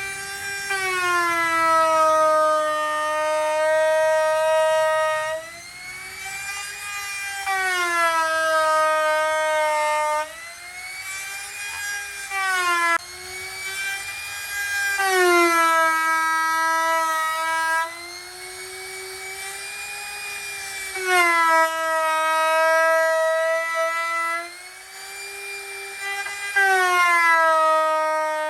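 Electric power tool motor whining loudly, its pitch repeatedly sagging and rising again every few seconds.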